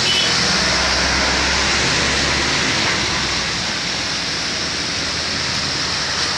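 Loaded truck engine running under load beneath a loud, steady hiss; the engine hum is strongest in the first couple of seconds and then fades as the truck moves off.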